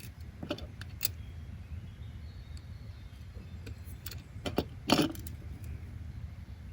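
A steady low rumble with a few scattered sharp clicks and knocks, the loudest cluster about five seconds in.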